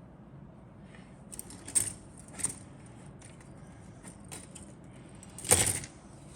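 Plastic model kit parts and their bags being handled in the box: a few short clicks and rattles, the loudest near the end.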